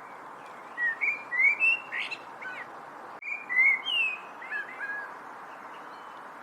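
A songbird singing two short phrases of whistled notes that slide up and down, the second starting just after the first ends. The song rises over a steady background hiss.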